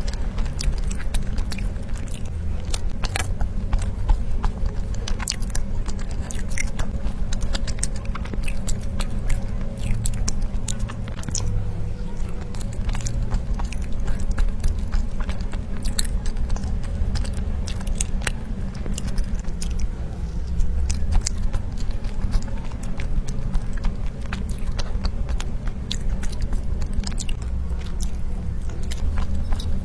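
A person eating soft cake rolls into a close microphone: steady chewing with many small wet mouth clicks and smacks, over a low rumble from the mouth and jaw.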